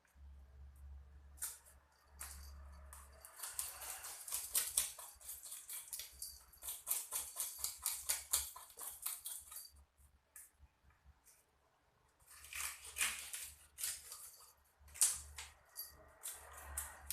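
Knife scraping scales off a biawan fish (kissing gourami) in quick, crisp strokes, several a second, in two long bursts with a short pause between.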